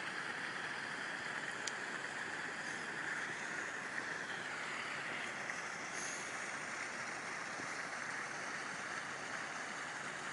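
Steady, even hiss of background noise with no distinct events, only a couple of faint ticks.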